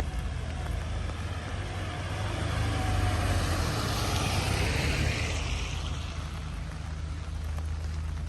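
A vehicle passing on a wet road: the hiss of its tyres on the rain-soaked surface swells to a peak about four to five seconds in, then fades away.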